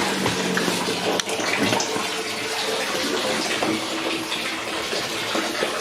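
Water running steadily into a glass aquarium as it fills, for a leak test of a freshly resealed tank.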